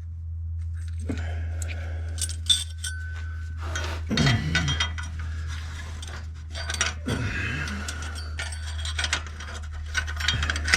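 Metal clinks and knocks of steel muffler clamp parts being handled and test-fitted on an exhaust pipe, scattered irregularly, over a steady low hum.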